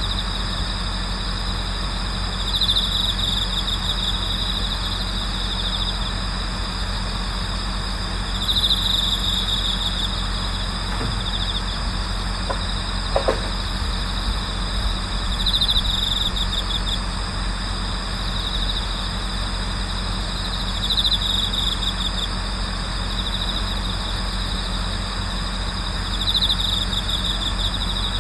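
Autumn crickets, among them bell crickets, singing together. A steady high trill runs underneath a louder pulsing call that comes back about every five or six seconds and lasts a couple of seconds each time. A steady low hum sits beneath the insects.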